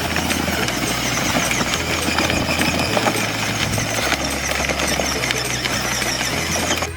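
Battery-powered toy vehicle driving over rough ground: a steady motor and wheel rumble with rattling, ending abruptly.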